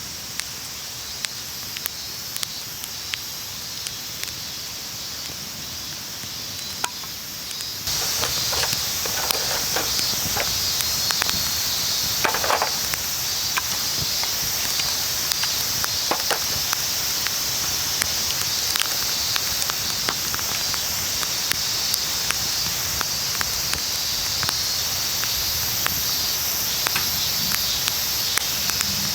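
Wood campfire crackling, with frequent sharp pops and snaps over a steady hiss. About eight seconds in, the hiss suddenly becomes louder.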